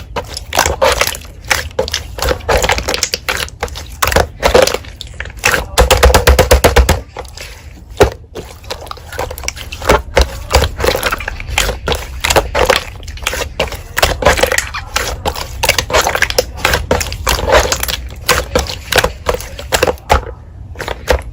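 Slime being squished and pressed by hand: a steady run of sticky clicks and crackles, with a louder burst of fast crackling about six seconds in.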